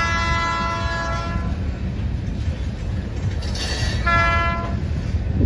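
Amtrak passenger train's air horn sounding a chord over the steady low rumble of the train: a long blast ends about one and a half seconds in, then a short blast follows about four seconds in.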